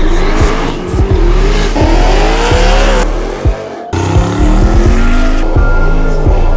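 High-powered supercharged and turbocharged Hemi V8 muscle cars revving hard, the pitch rising and falling, with tyre squeal. Music with a heavy bass beat plays over it, and the sound cuts out briefly about four seconds in.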